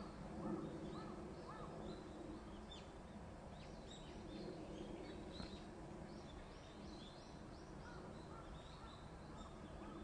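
Small birds calling in a wood: a run of short, high chirps through the middle and later part, with lower, repeated arched notes at the start and again near the end, over a steady low background rumble.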